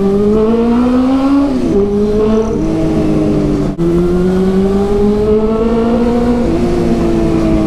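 Honda CB400's inline-four engine through a Two Brothers aftermarket exhaust, pulling under acceleration: its pitch climbs, breaks at gear changes about a second and a half in and again near four seconds, climbs again, then eases off near the end.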